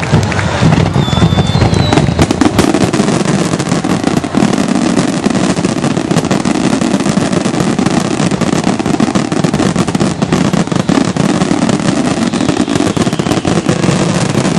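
Aerial fireworks display with shells bursting in a rapid, continuous barrage of bangs and crackling.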